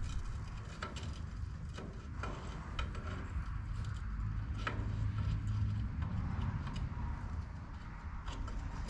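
Scattered metal clicks and clinks of hand tools on bolts as windrower parts are tightened, at an irregular pace, over a steady low rumble.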